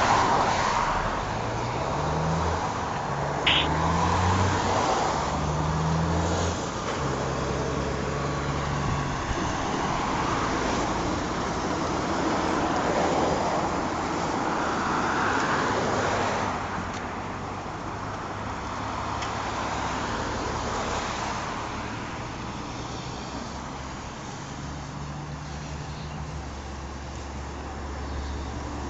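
Highway traffic: vehicles passing at speed in swells of tyre and engine noise. In the first several seconds a nearby engine climbs in pitch in short steps, like a vehicle accelerating through its gears.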